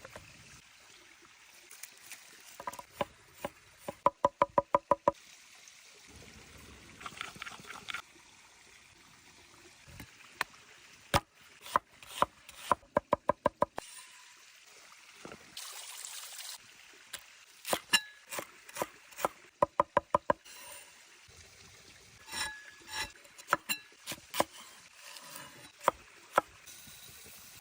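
Repeated sharp knocks and taps, several times coming in quick runs of about seven strikes in roughly a second that ring slightly, with scattered single clicks between them.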